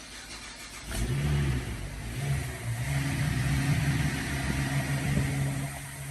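GM 3.6-litre V6 engine starting for the first time after a sludge clean-out, diesel flush and new timing chain. It catches about a second in and runs at a fast idle whose pitch rises and falls, dipping briefly near the end.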